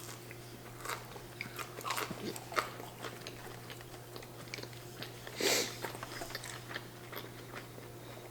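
Close-miked biting and chewing of breaded chicken nuggets: small crunches and wet mouth clicks, with one louder burst about five and a half seconds in.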